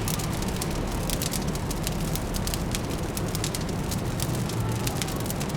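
Fireplace fire crackling with frequent, irregular sharp pops over a steady low city hum.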